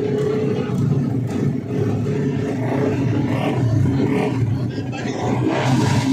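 Tuned 150cc four-stroke underbone racing motorcycles running hard on track, their engines revving with pitch rising and falling, and a louder rise near the end.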